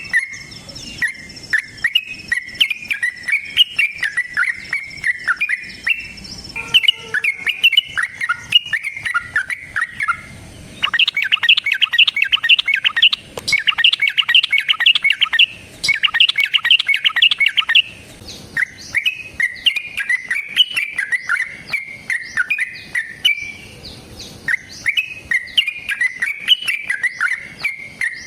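Yellow-vented bulbul (trucukan) singing a long run of bubbly chattering phrases. From about eleven seconds in, a louder, harsher, rapid chatter comes in three bursts before the bubbly phrases resume.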